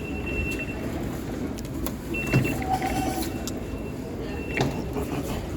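Busy station ambience: a steady low rumble of crowd and machinery, with short high-pitched tones several times and a few sharp clicks.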